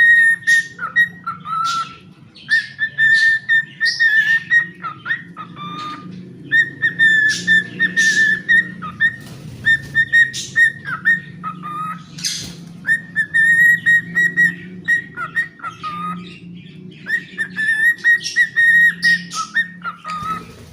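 Cockatiel whistling its song: phrase after phrase of long, steady whistled notes, each ending with a drop to a lower note, broken by short scratchy chirps.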